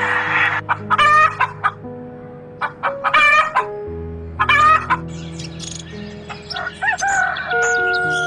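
Rooster crowing and clucking in three loud short calls, followed by thinner bird chirps near the end, over background music with held notes.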